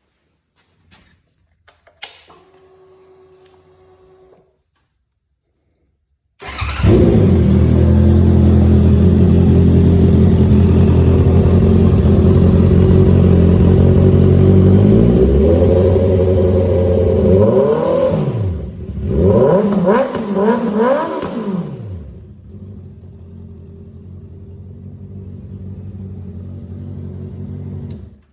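A 2018 Honda CB650F's inline-four engine with a homemade exhaust (stock muffler and cat cut off, replaced by 3-inch pie-cut tubing and a 2.5-inch resonator) starting up after a faint click and short whine, then idling loud and steady. About halfway through it is revved up and back down about three times, then settles into quieter steady running. The exhaust is still pretty loud.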